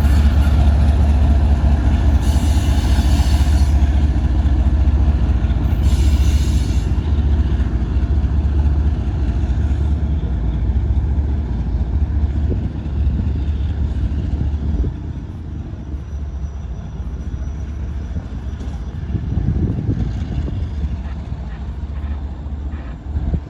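Freight train cars rolling past with a heavy, steady low rumble that eases off a little over halfway through. Two short, high hisses come in early on, each a second or so long.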